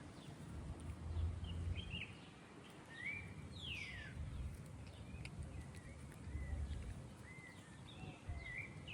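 Birds chirping: short scattered chirps and one clear falling whistle about three and a half seconds in, over a low rumble.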